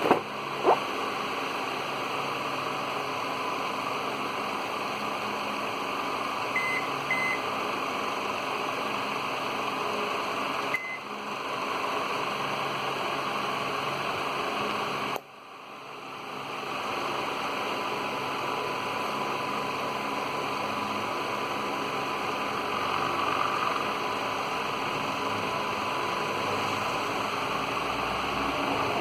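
Steady hiss with a few short, high beeps from a microwave oven control board's buzzer: two close together about six and a half seconds in, then another a few seconds later. A click sounds near the start, and a faint steady tone runs through the later part.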